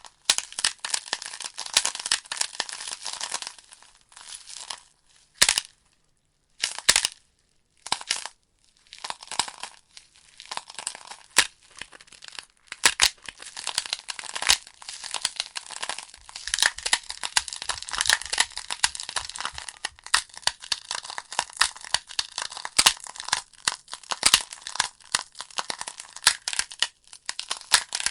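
Wood fire in a fireplace, burning logs crackling and popping in dense irregular snaps over a soft hiss. The crackle briefly drops out to near silence twice, about six and eight seconds in.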